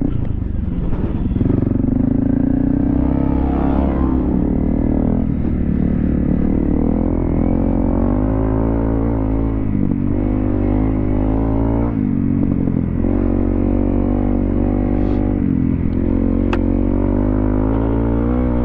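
Honda CRF250L's single-cylinder four-stroke engine running on a trail ride, its note rising and falling over and over as the throttle is worked, with several short dips in between. A single sharp click sounds about sixteen seconds in.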